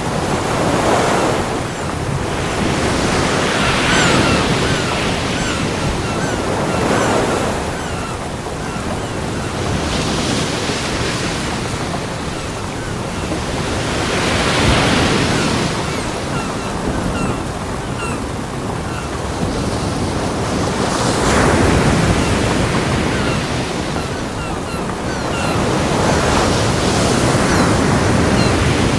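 Ocean surf washing onto a beach: a steady rush of breaking waves that swells and falls back every few seconds.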